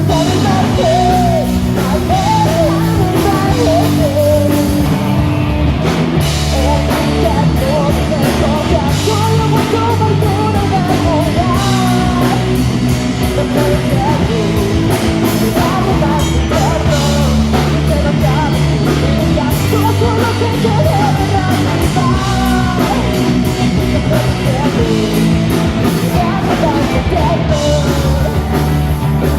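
Punk rock song: a sung vocal over distorted guitar, bass and a drum kit.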